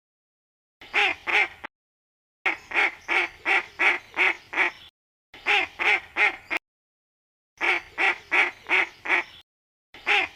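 Duck quacking in five runs of two to six quick quacks each, separated by silent gaps of about a second.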